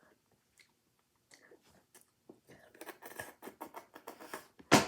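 Close-up chewing and crunching of food, a run of short crackly bites and chews that grows busier in the middle, with one loud sharp crunch near the end.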